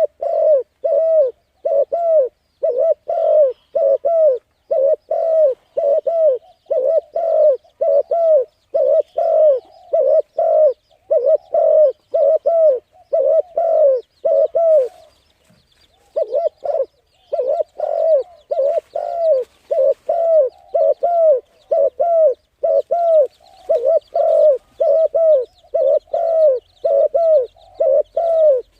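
A bird calling in a steady run of short hooting notes, about two a second, with a short pause about halfway through. Fainter chirps of other birds sound behind.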